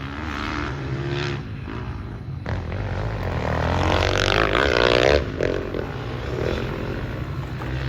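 Dirt bike engine revving up, loudest about five seconds in, then backing off sharply.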